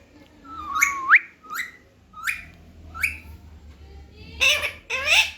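Baby parrot giving a series of about six short calls, several with a quick rising, whistle-like sweep in pitch; the last two, near the end, are louder and harsher.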